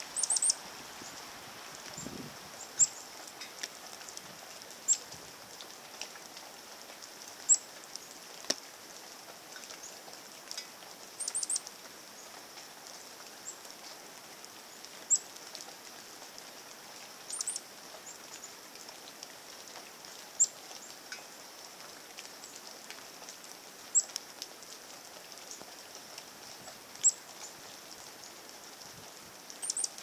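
A small bird's sharp, very high chirps, single or in quick twos and threes, every two to three seconds, over a faint steady hiss.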